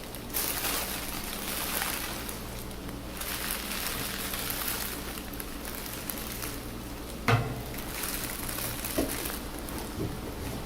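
Steady rush of air blowing through a dryer vent, with a low hum beneath it. A single knock comes about seven seconds in.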